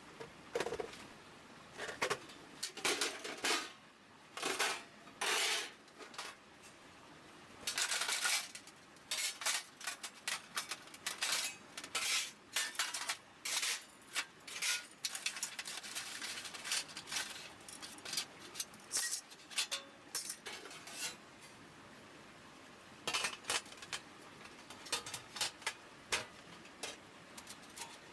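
Thin metal pieces clanking and clinking together as they are handled, in irregular bursts of sharp knocks and rattles, with a lull of a couple of seconds about three-quarters of the way through.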